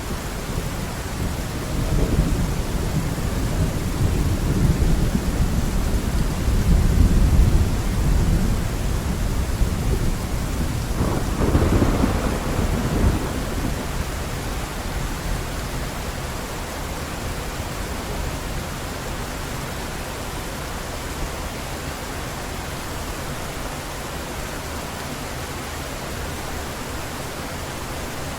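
Heavy rain with thunder rumbling low through the first half, a louder thunder peal about eleven seconds in, after which the rumble dies away and leaves the steady hiss of heavy rain.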